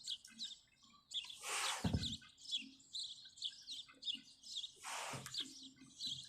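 Small birds chirping, many short quick high calls. A soft swell of whooshing noise comes about a second and a half in, and another about five seconds in.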